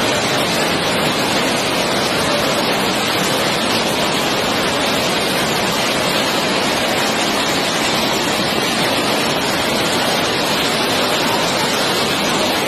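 Water rushing steadily from a dam's spillway, a loud even noise that does not change.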